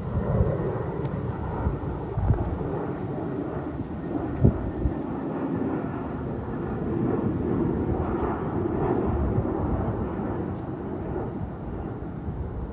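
Airliner engines passing, a steady rushing drone that swells to its loudest about eight to nine seconds in, with low gusts of wind buffeting the microphone.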